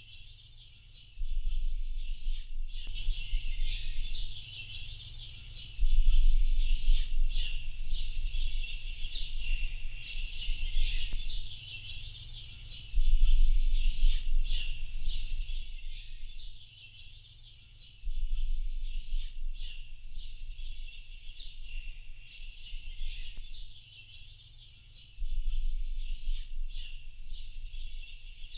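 A dense chorus of small birds chirping and trilling continuously at a high pitch. Under it, a low rumble comes in several times for a few seconds at a time and makes up most of the loudness.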